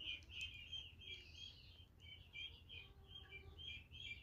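A small bird chirping over and over, faint, about four short chirps a second.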